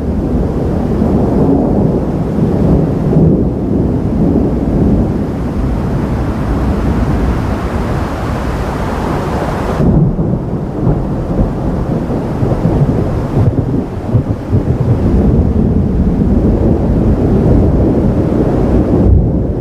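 Thunder rumbling on and on in a long, heavy roll. A brighter rushing layer builds over the middle and stops abruptly about halfway through, while the low rumble carries on.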